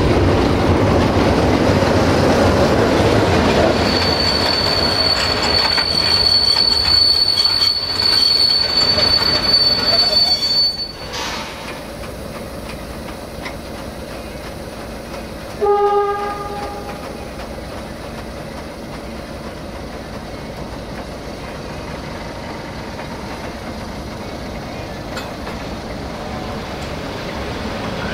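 A CFR Class 60 (LDE2100) Sulzer diesel-electric locomotive running past at close range, followed by passenger coaches rolling slowly by. A steady high wheel squeal sounds for several seconds and cuts off abruptly. About halfway through comes a short horn blast, then the quieter rumble of the coaches' bogies.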